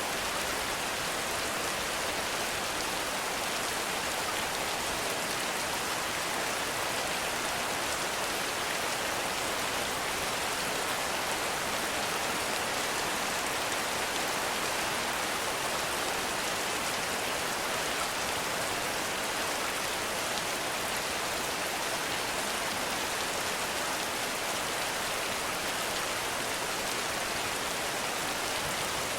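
Heavy rain falling steadily, an even hiss of countless drops without a break or change.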